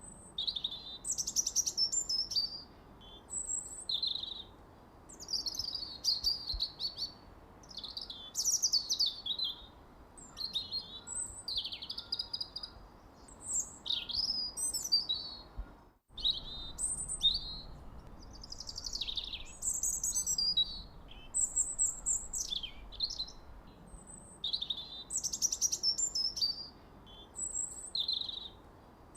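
Songbirds chirping and trilling, many short high calls following one another with only brief pauses. About halfway through there is a momentary cut to silence.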